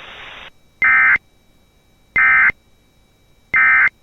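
NOAA Weather Radio EAS end-of-message code: three identical short bursts of digital data tones, each about a third of a second and about 1.4 s apart, marking the end of the flood warning. Radio static hisses for the first half second before the bursts.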